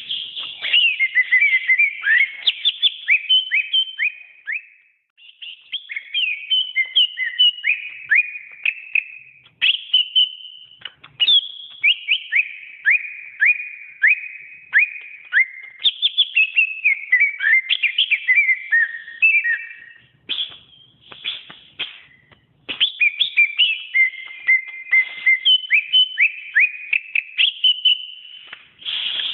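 Cucak ijo (green leafbird) singing a long, fast run of varied whistled phrases, many notes sweeping quickly downward, with short pauses about five seconds in and again past the middle.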